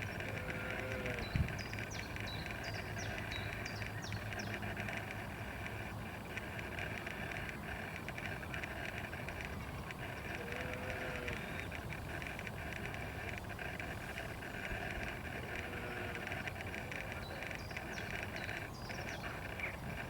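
Steady outdoor ambient noise with a few short high chirps near the start and again near the end.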